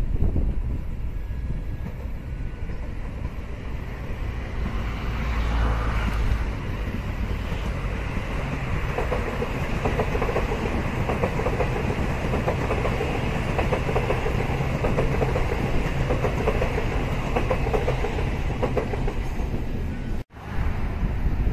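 Electric commuter train passing close by, its wheels clicking rapidly over the rail joints. The sound builds as the train approaches, and the clicking is loudest from about 9 to 19 seconds in. The sound cuts out abruptly near the end.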